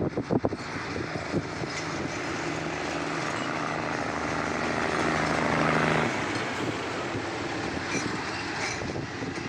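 Diesel locomotive of ordinary train 439 pulling out and passing close, its engine note building to its loudest about six seconds in and then dropping away suddenly, followed by the coaches rolling by on the rails. Wind buffets the microphone briefly at the start.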